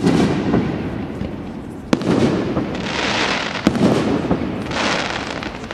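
Aerial firework shells bursting: three sharp bangs, at the start, about two seconds in and near four seconds in, each trailing off in a rolling echo. Two stretches of hiss come between and after the bangs.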